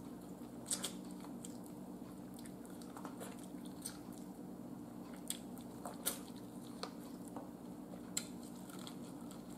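A person biting and chewing corn on the cob close to the microphone: scattered short, soft crunches and mouth clicks over a faint steady low hum.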